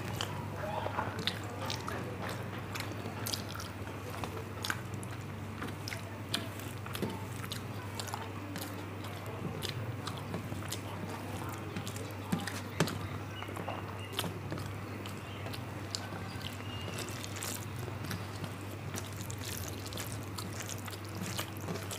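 A person eating a rice meal close to the microphone: chewing and lip-smacking, with many short wet clicks scattered throughout, over a steady low hum.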